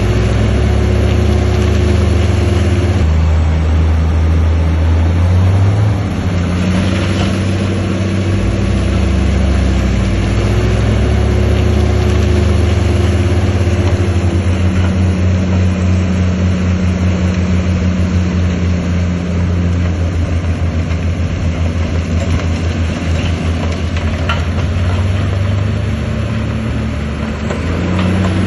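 Heavy diesel engine of a working bulldozer, running steadily under load. Its note shifts up and down a few times as the throttle and load change.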